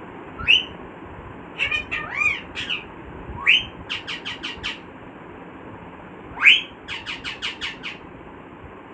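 Pet parrot squawking: three loud rising calls, each followed by a quick run of short sharp chirps at about five a second, with a few wavering calls between the first two.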